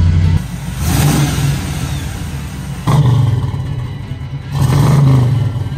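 Chevrolet 305 V8 revving hard in three surges, about a second, three seconds and five seconds in, settling back between them.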